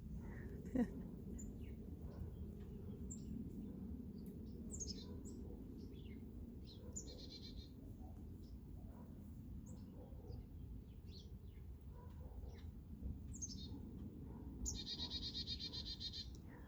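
Small songbirds, chickadees among them, chirping in short high calls, with a harsh buzzy call lasting about two seconds near the end.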